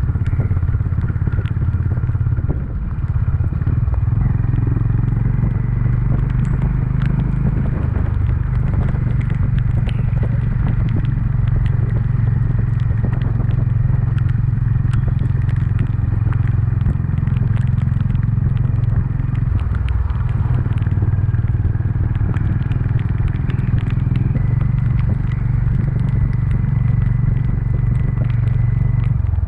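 Honda CB350's single-cylinder engine running steadily while riding, with scattered small ticks and crackles over it. The level dips briefly a few seconds in.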